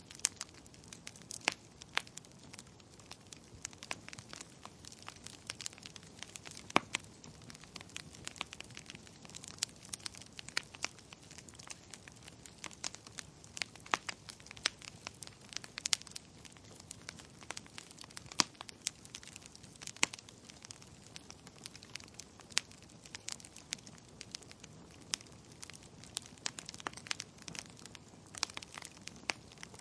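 Wood fire crackling in a fireplace: irregular sharp snaps and pops, some louder than others, over a steady low hiss.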